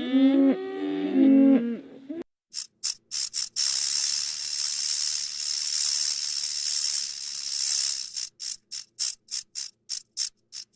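Cattle mooing, with several overlapping calls gliding in pitch, for about two seconds. Then the sound cuts to a different one: a high breathy hiss, first in a few short puffs, then a longer swelling stretch, then quicker puffs about three a second near the end.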